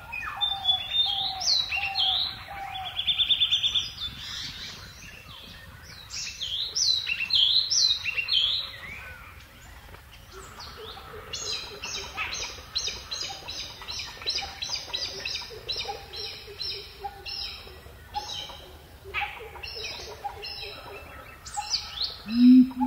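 Several birds calling and singing: scattered chirps and whistles, a fast trill about 3 seconds in, then a long run of repeated notes at about two a second. A loud low call starts just at the end.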